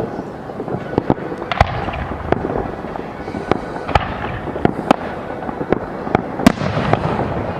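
Fireworks display: a rapid, irregular series of sharp bangs from bursting aerial shells over a steady crackle, the sharpest crack coming near the end.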